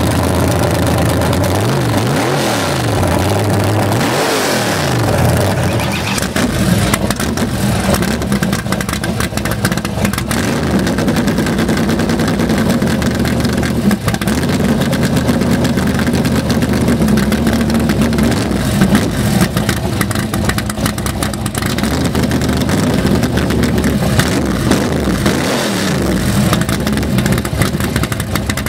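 Loud race car engine revved twice in quick succession, then held at a steady, choppy high idle.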